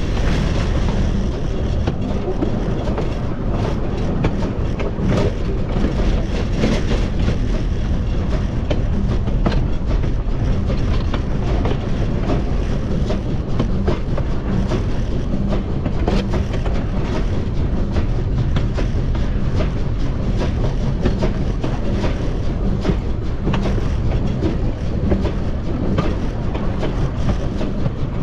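Cumbres & Toltec narrow-gauge steam locomotive 488 running at the leading wheels: a continuous rumble of wheels on rail with many sharp irregular clicks and clatter from the track.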